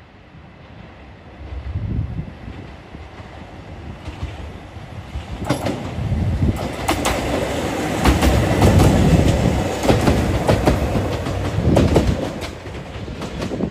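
Train passing close by, its wheels clicking in quick runs over the rail joints. The sound builds over the first several seconds, is loudest about two-thirds of the way in, and eases off near the end.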